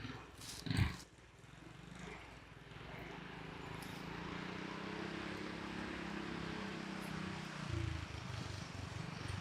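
Go-kart engine running, growing louder over the first few seconds and then holding steady before its sound changes near the end; two short sharp sounds come just before it in the first second.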